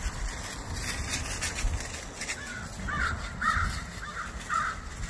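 A bird giving five harsh calls in quick succession, about two a second, in the second half.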